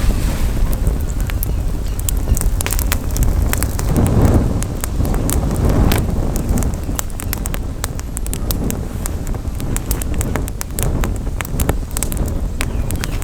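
Campfire crackling, with frequent sharp pops and snaps of burning wood. Wind rumbles on the microphone underneath and swells about four seconds in.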